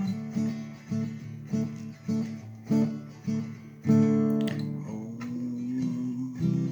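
Acoustic guitar strumming chords in an instrumental break, with no singing. The strums come a little under twice a second, and about four seconds in one chord is left to ring for about two seconds before the strumming resumes.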